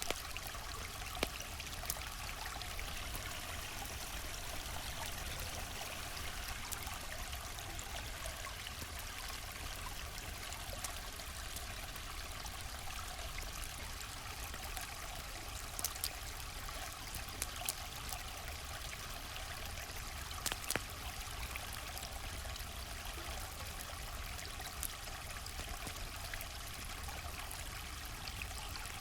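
River water flowing steadily with a constant rushing sound. A handful of sharp crackles from a campfire pop out over it now and then.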